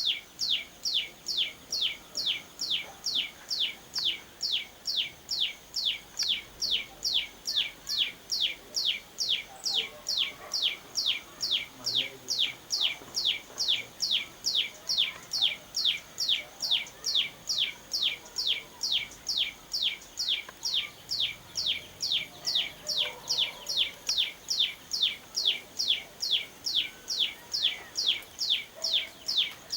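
A small songbird calling one high, down-slurred note over and over, very evenly, about two to three times a second.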